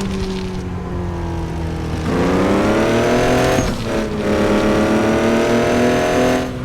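Truck engine accelerating hard: the revs climb twice, each climb ending in a sudden drop in pitch.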